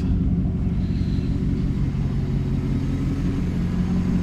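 Chevy Silverado engine idling steadily, freshly started after an oil change. It shows only about 20 psi of oil pressure at idle, which the owner says should be around 40, a sign that something is still wrong with it.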